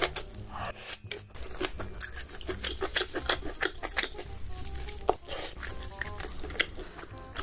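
Close-miked mukbang eating sounds: a mouthful of noodles being chewed, with many sharp, wet mouth clicks. Quiet background music plays underneath.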